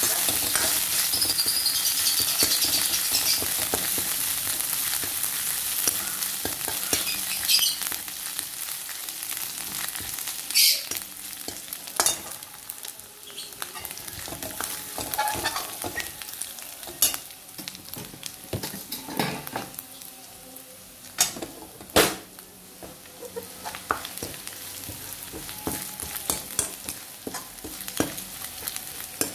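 Onion, garlic, ginger paste and whole spices sizzling in hot oil in a kadhai while a spatula stirs them, the tempering (tadka) for a dal. The sizzle is loudest over the first several seconds and then dies down, with sharp clicks and scrapes of the spatula against the metal pan scattered through the rest.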